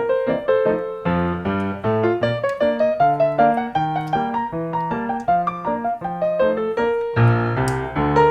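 Background piano music: a quick run of steady notes with chords.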